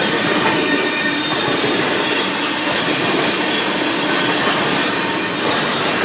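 Canadian Pacific freight train rolling past a few metres away, a loud, steady rumble and rattle of wheels on rail.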